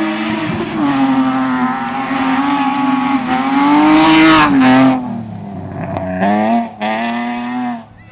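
Rally car engine at high revs, holding a steady note for about four seconds, then lifting off with a falling pitch, followed by two short bursts of throttle before it falls away near the end.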